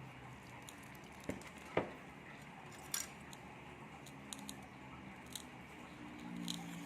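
A few sharp clicks and light knocks over a low steady hiss, the loudest a little under two seconds in; music begins near the end.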